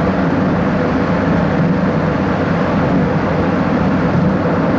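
Steady road and engine noise of a car driving through a road tunnel, heard from inside the cabin.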